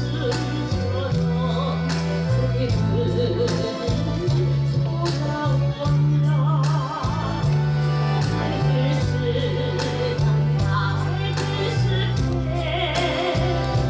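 A woman singing a Korean trot song with strong vibrato, over accordion and a backing track with steady bass notes and a regular drum beat.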